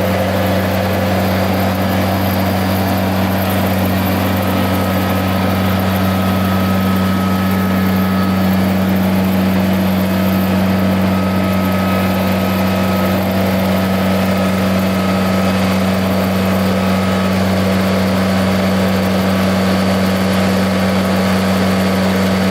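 Tractor engine idling steadily, a loud, even low hum that holds one pitch.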